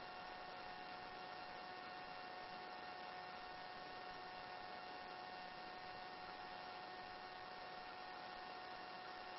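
Faint, steady electrical hum and hiss on a helicopter's headset intercom line with nobody talking, a few thin steady tones over even hiss. No rotor or engine noise comes through.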